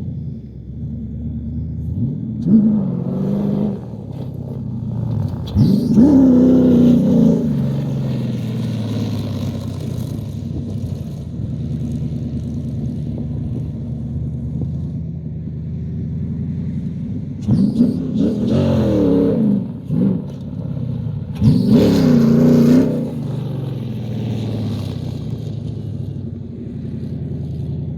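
Dune buggy's Chevrolet LS1 5.7-litre aluminium V8 running steadily and being revved sharply four times, each rev rising quickly and dropping back to a steady run.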